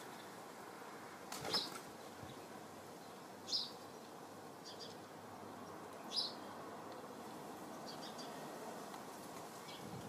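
Small birds chirping: three clear short high chirps a couple of seconds apart, with a few fainter ones later, over a steady outdoor background hiss.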